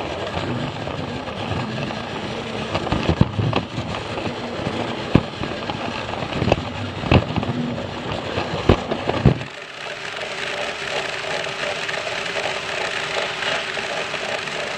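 Plarail toy train running on plastic track: battery motor and gears whirring, wheels rattling, with sharp clicks from rail joints or points. About two-thirds through the low rumble drops away and the running turns lighter and steadier.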